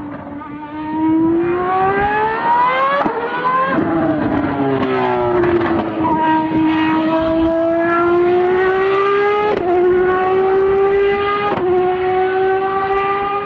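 High-revving sports car engine accelerating hard through the gears. Its pitch climbs and then drops sharply at each upshift, about four times, and the later gears climb more slowly.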